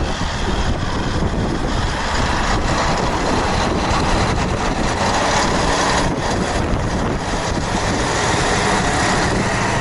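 Tractor diesel engine running steadily, with the scrape and rush of snow being pushed by its blade.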